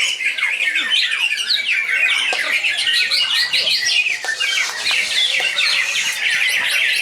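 Several greater green leafbirds (cucak ijo) singing at once: a dense, unbroken tangle of quick rising and falling whistles and chattering notes.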